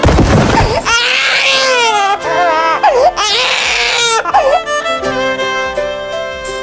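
Background music with a thud at the start, then a wavering, crying wail rising and falling for about three and a half seconds; after that only the music goes on.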